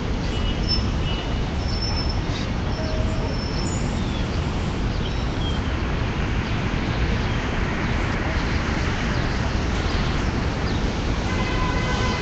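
Steady street traffic noise, a low rumble, with a few short high bird chirps near the start.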